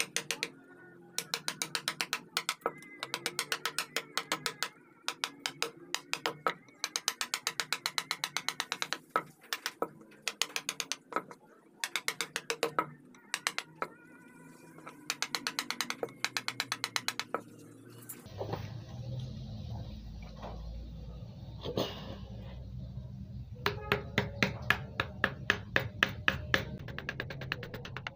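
Wood carving chisel driven into wood by rapid mallet taps, in quick runs with short pauses. About two-thirds through, a steady low hum sets in under the taps.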